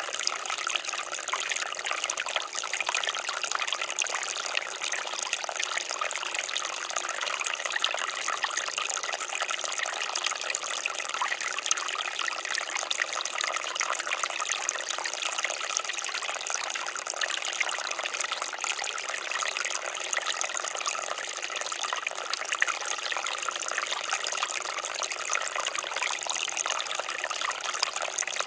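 Water fountain splashing steadily, falling water pattering and trickling into a basin.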